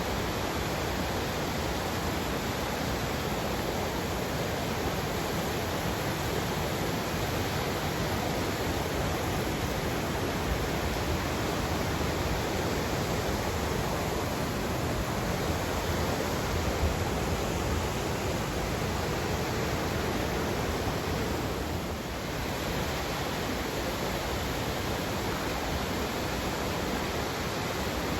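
A river's water rushing in a steady, unbroken flow, dipping slightly for a moment about three-quarters of the way through.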